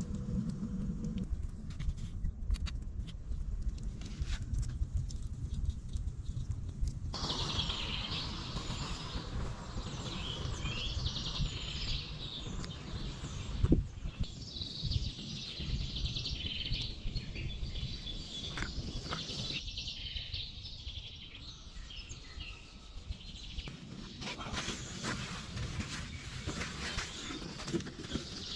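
Birds chirping, starting about a quarter of the way in and coming back near the end, over a steady low rumble. A single sharp knock sounds about halfway through.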